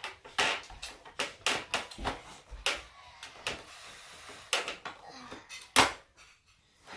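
Plastic toys being handled and moved about, giving a string of irregular clicks and knocks, with one louder knock near the end.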